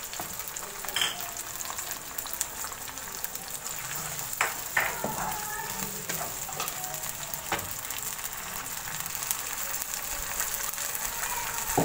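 Tomatoes, browned onions and garlic-ginger paste sizzling steadily in hot oil in a wok, stirred with a wooden spatula that scrapes and knocks against the pan a few times.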